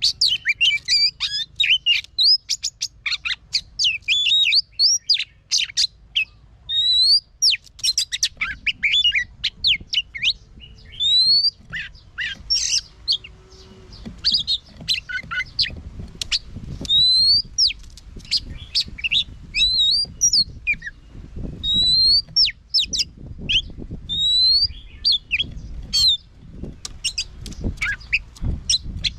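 Oriental magpie-robin singing: a long, varied run of clear whistled notes, many sliding up or down, mixed with quick chattering phrases and short pauses. A low rumble sits beneath the song in the second half.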